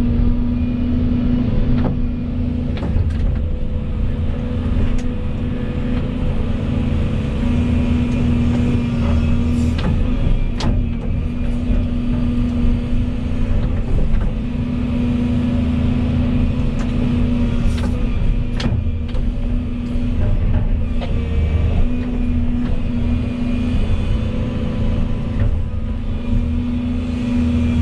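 Diesel engine of a Volvo EC220E 25-tonne excavator running under working load. A strong hum swells and drops back every few seconds as the hydraulics take and release load, with a few scattered light knocks.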